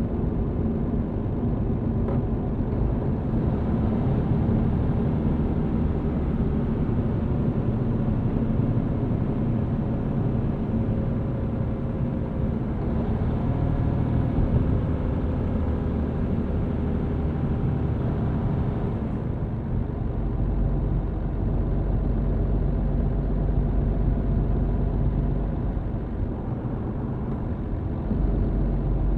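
MAN TGX truck's diesel engine running steadily on the move, heard inside the cab along with road noise. A deeper low rumble comes in about two-thirds of the way through.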